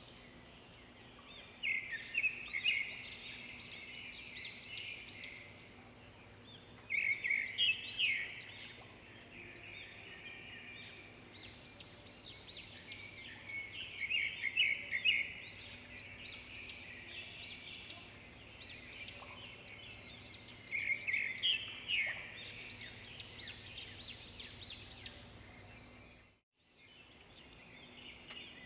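Several small birds chirping and singing over one another in busy clusters of quick, high calls with quieter spells between, over a faint steady low hum. The sound cuts out completely for a moment near the end.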